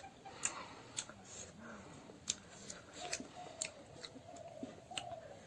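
Close-up eating sounds: duck meat being chewed, with sharp wet mouth clicks and smacks about once or twice a second.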